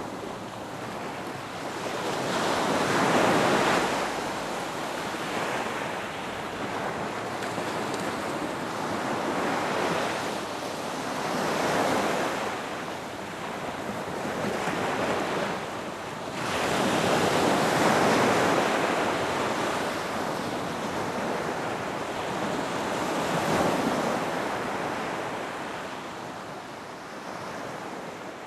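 Ocean surf breaking on a beach, swelling into a wash every few seconds and then falling back.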